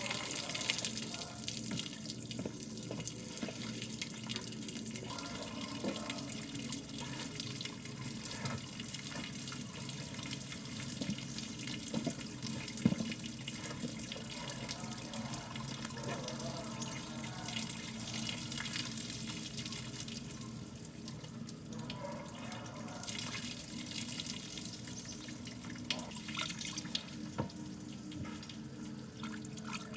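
Water running steadily, with scattered small knocks and one sharp knock about halfway through.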